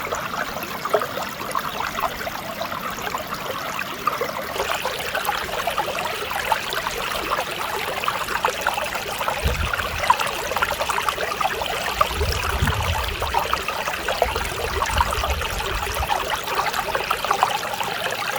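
Mountain stream flowing over rocks: a steady, busy babble of small splashes and trickles that turns a little brighter about four and a half seconds in.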